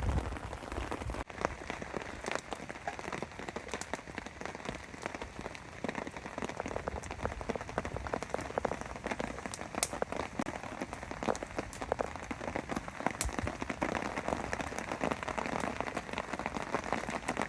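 Heavy, sustained rain falling on a tarp shelter: a steady hiss with many sharp, irregular drop hits.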